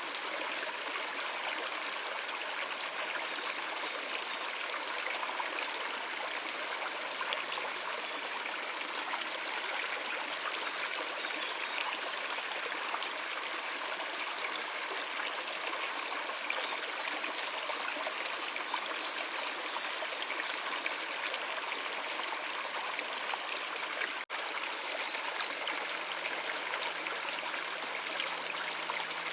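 A stream of water running over rocks, a steady rushing and splashing. A small bird chirps a quick run of high notes about halfway through, and the sound drops out for an instant near the end.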